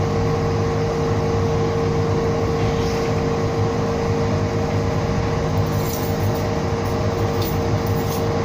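Inside a Siemens-Duewag U2 light-rail car on the move: a steady rumble and hum with a constant whining tone.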